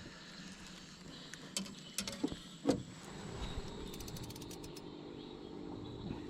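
Small spinning fishing reel being handled: a few sharp knocks, then a quick run of fine clicks from its mechanism about four seconds in.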